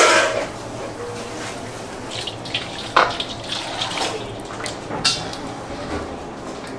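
Water running from a tap into a sink, with a few sharp knocks of dishes or utensils at the start, about three seconds in and about five seconds in.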